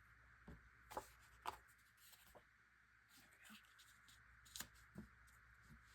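Faint paper handling: a few light taps and soft rustles as cardstock pieces are moved and set down on a table, over a steady low hiss.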